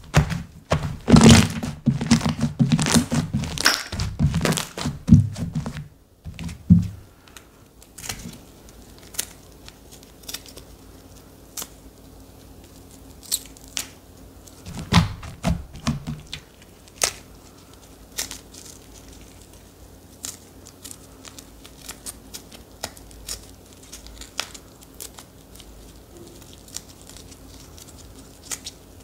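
Hands playing with slime: about six seconds of dense squishing and popping, then softer handling with scattered sharp clicks and pops.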